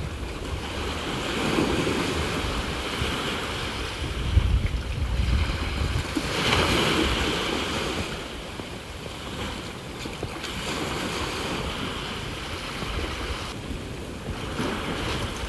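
Sea waves washing onto the shore, surging and falling back every few seconds, with wind rumbling on the microphone.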